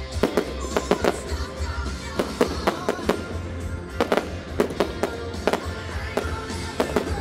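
Fireworks display: sharp, irregular bangs of shells bursting, about two or three a second, over music.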